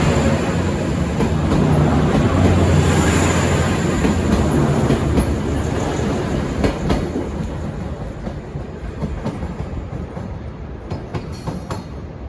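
V/Line VLocity diesel multiple-unit train running past under power, with a steady diesel engine drone and wheels clicking over rail joints. It grows steadily fainter as it pulls away.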